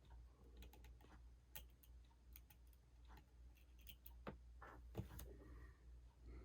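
Faint, irregular small clicks and ticks of a precision screwdriver working the tiny screws inside an iPhone 6, over a low steady hum.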